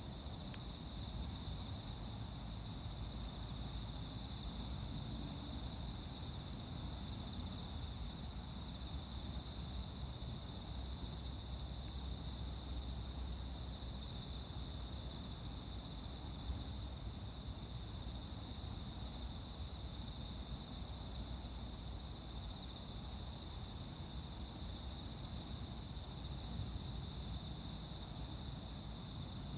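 Steady chorus of singing insects, an unbroken high-pitched shrill, over a low rumble.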